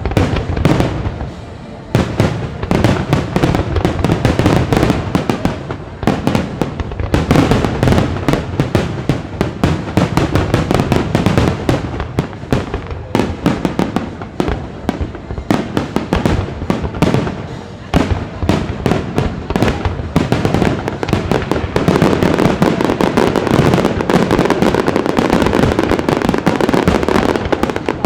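Fireworks display bursting in a dense barrage of bangs and crackles, with music from the display's sound system underneath. The bursts come faster and faster until, over the last several seconds, they merge into an almost unbroken rapid crackle.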